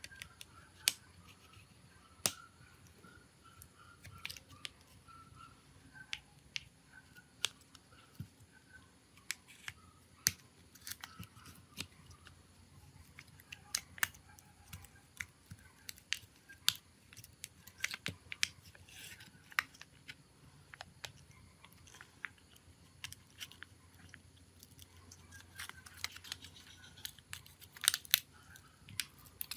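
Irregular sharp clicks and small taps of hand tools and parts being handled on a smartphone, with a few faint squeaks between them.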